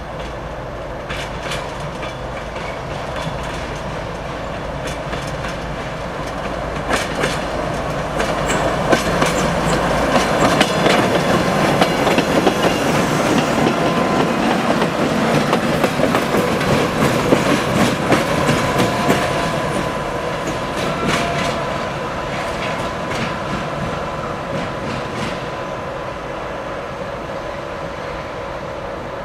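ChME3 diesel shunting locomotives moving past on the track: a low engine hum gives way to a loud rumble with wheels clicking over the rail joints, loudest in the middle and fading toward the end.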